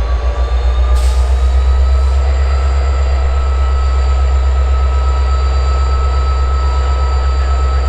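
Norfolk Southern local freight train moving slowly, its diesel locomotive giving a heavy pulsing rumble, with a steady high-pitched squeal from the wheels as it takes the switch off the main line.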